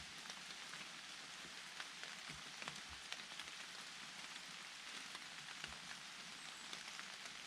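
Steady rain falling in a forest, an even hiss with individual drops ticking and now and then a dull tap close by.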